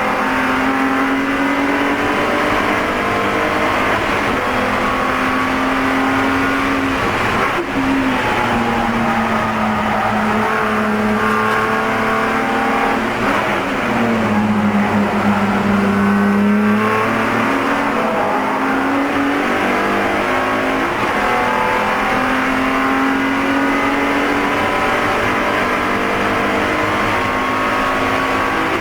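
Spec E46 BMW race car's straight-six engine under hard acceleration, heard from inside the car: the pitch climbs and drops back again and again through gear changes, with one deeper dip in revs about halfway through.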